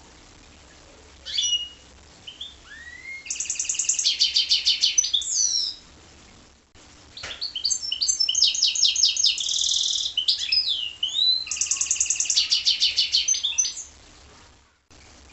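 A goldfinch × canary hybrid (a mule) singing: two long, high song phrases of rapid trills mixed with rising and falling whistled notes, the second one longer, after a single short note near the start.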